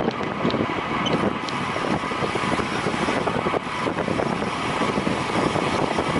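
Wind rushing over the microphone, with road and tyre noise from a racing bicycle riding at speed.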